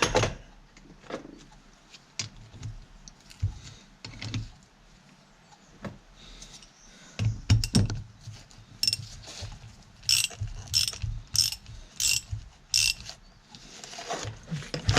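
Ratchet wrench clicking in short bursts, about once or twice a second, as bolts on a tractor hydraulic pump are run down; knocks and clatter of metal parts come before it.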